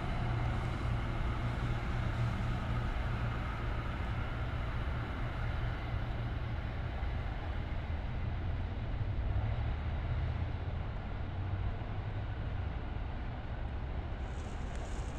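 Commuter train running with a steady low rumble.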